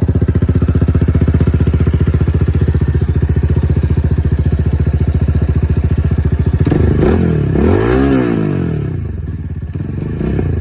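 Vitacci GTX 250 EFI motorcycle engine idling steadily, then revved up and back down twice about seven seconds in before settling back to idle.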